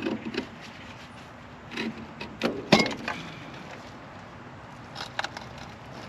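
Scattered metal clicks and clinks from a brake master cylinder's cover and retaining clip being worked open by hand, the loudest knock nearly three seconds in and a quick cluster about five seconds in.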